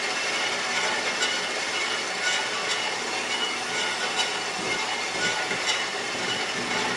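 Metal-cutting bandsaw running steadily through a steel link arm, with faint irregular ticks over the cutting noise.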